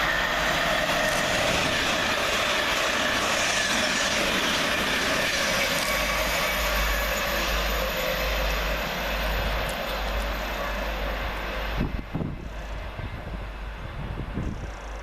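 A pair of Class 387 electric multiple units passing through the station, a loud steady rushing and rolling noise of wheels on rail. About twelve seconds in it drops off abruptly to a quieter rumble with a few knocks.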